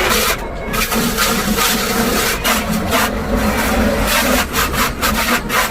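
Rapid, irregular rubbing and scraping strokes of hand scrubbing on a car's body.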